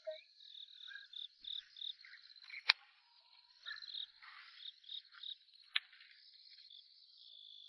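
Insects chirping in a high, steady pulsing trill of about five pulses a second. Two sharp clicks come a little under three seconds in and again near six seconds, with faint rustling between.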